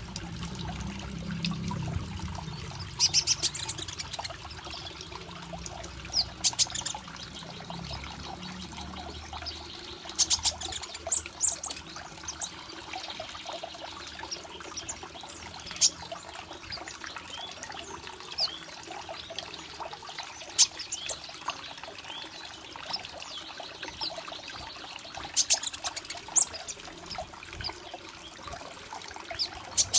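Water pouring and trickling steadily, with short high chirps from a small bird, probably the kept konin (ruby-cheeked sunbird), every few seconds, sometimes in quick clusters.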